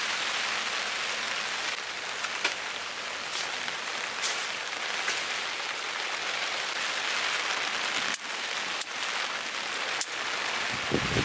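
Heavy rain falling steadily, with scattered sharp drip-like clicks and a short low knock near the end.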